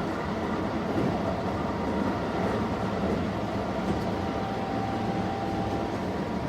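Keihan 10000 series electric train running at speed, heard from inside the car: a steady rumble of wheels on rail with a faint steady whine, and a second faint tone for a couple of seconds past the middle.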